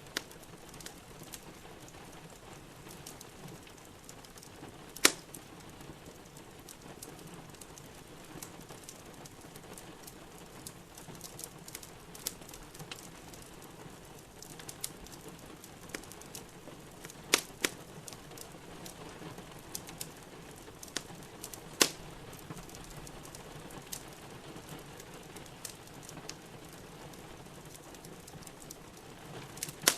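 Wood fire crackling in a fireplace over a steady patter of rain, with a few sharp pops: one about five seconds in, two close together near the middle, and another a few seconds later.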